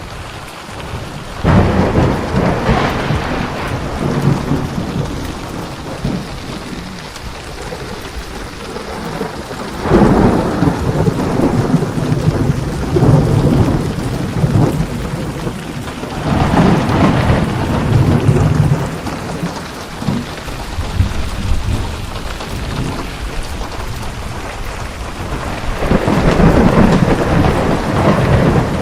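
Steady heavy rain with rolling thunder: four long rumbles swell up through the rain, about a second and a half in, at ten seconds, around sixteen seconds and near the end.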